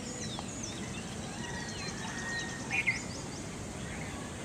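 Several birds chirping and whistling over a steady low background noise, with one louder short call about three seconds in.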